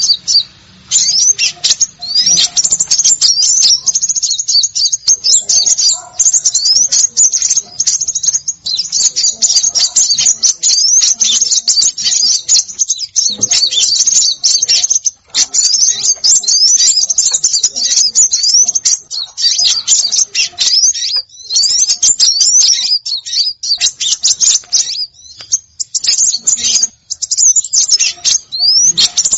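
A dense, nonstop chorus of high-pitched chirps and quick twittering sweeps from several small songbirds, briefly broken about halfway through. It is a bird-lure (pikat) recording of small birds, made to draw them in.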